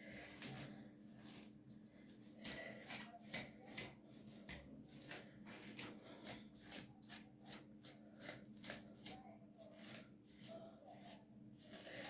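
Hands rubbing and squeezing wet hair while working in a hair-dye treatment, a quick run of short rubbing strokes, about three a second.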